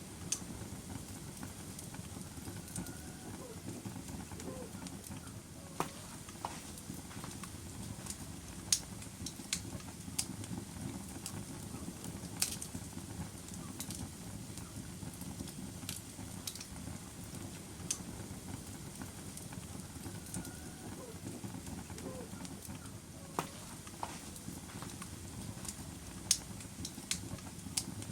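Log fire burning with a steady low rush and scattered sharp crackles and pops, a few of them noticeably louder.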